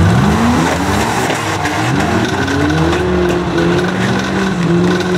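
Several banger racing cars' engines revving together, their pitch rising and falling as they accelerate and back off. One rises sharply in the first second.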